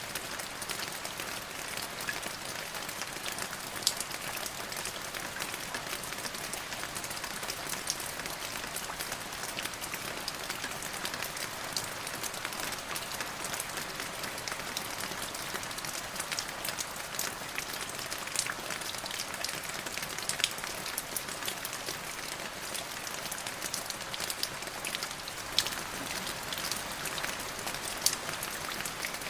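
Steady rain falling on a surface: an even hiss with many separate drops ticking and splatting through it, a few louder than the rest.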